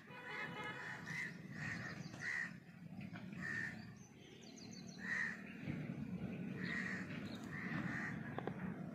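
A bird calling again and again, short calls about once a second, over a low steady background rumble.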